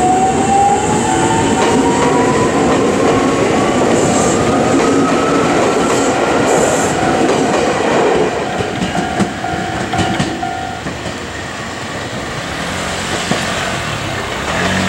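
Electric commuter train pulling away from the platform, its motors whining higher and higher as it gathers speed, with a second, lower whine rising alongside. The noise eases off after about eight seconds as the train moves away.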